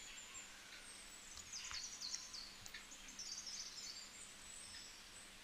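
Faint chirping of small birds in the background, short high calls scattered through, with a few light clicks over quiet room tone.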